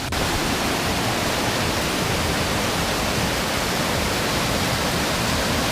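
Waterfall rushing close by: a steady, even wash of falling water.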